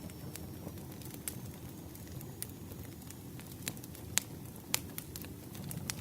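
Campfire crackling: a steady low rumble of burning wood with scattered sharp pops, a few louder snaps in the second half.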